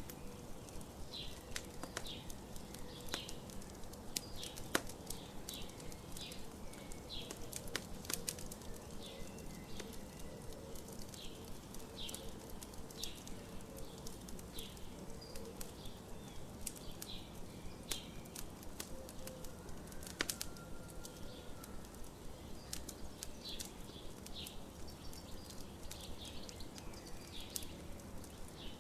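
Campfire crackling with scattered sharp pops, while a bird chirps repeatedly, about once a second.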